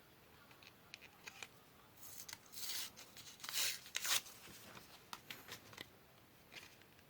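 Paper being cut and handled: a run of snips and crisp paper rustles, loudest about two to four seconds in, with scattered lighter clicks before and after.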